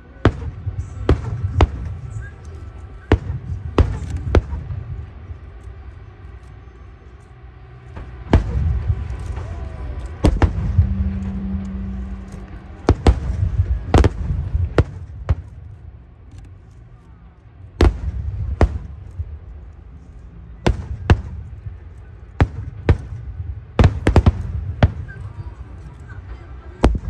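Aerial firework shells bursting in a long, irregular series of sharp bangs, with a low rumble between them.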